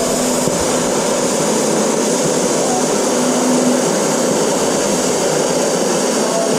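Plasma cutter cutting stainless steel: a steady, loud hiss with a faint low hum underneath.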